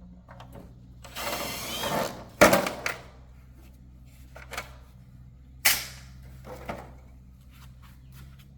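Metal tools and parts being handled during motorcycle repair: a rough scrape about a second in, then a sharp clank, with a few more knocks and another loud clank near the middle, over a steady low hum.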